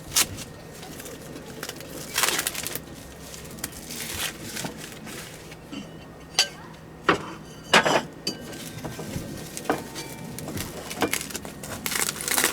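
Cookware and food being handled: scattered clinks and knocks of pots and lids, with a few brief rustles and quieter stretches between.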